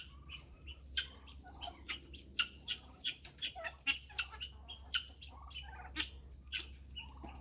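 Domestic turkeys clucking and peeping, with short calls scattered throughout.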